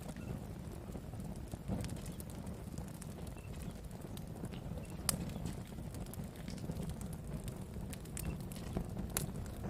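Campfire of burning wood with a low steady rumble and irregular crackles and pops. The sharpest pop comes about halfway through.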